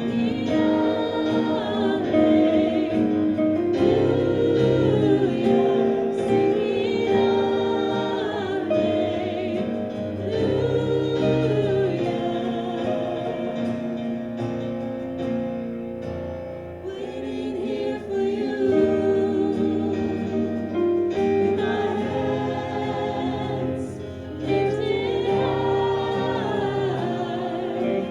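A contemporary Christian worship song: several voices singing together over instrumental backing.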